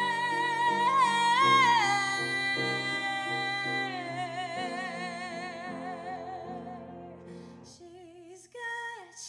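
A woman's voice holds a long, high wordless sung note with vibrato over chords from a backing accompaniment. The note steps down about two seconds in and slowly fades. Near the end the accompaniment stops and softer, lower singing starts.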